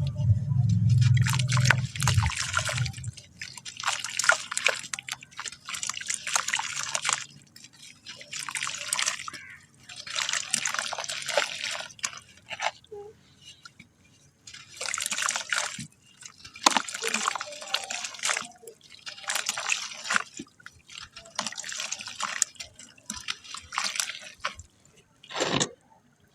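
Wet black sand being crumbled by hand again and again, each wet, dripping crunch lasting about a second, with short pauses between. A low hum sits under the first few seconds.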